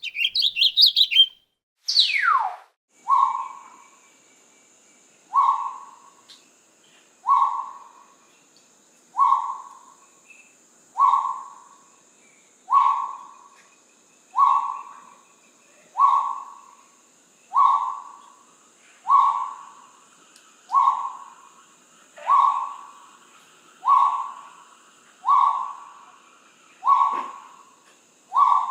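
Bird calls: about a second of rapid high chirping, then one whistle falling steeply in pitch, then a single short note repeated steadily every second and a half to two seconds, over a faint steady high-pitched hum.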